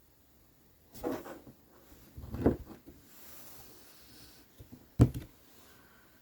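Three separate knocks and clunks of tools or objects being handled and set down on a work table, the sharpest about five seconds in.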